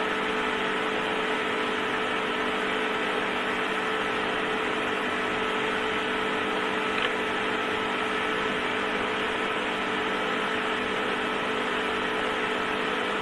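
Electric heater running with a steady hum and whir that holds several fixed tones, with one faint click about seven seconds in.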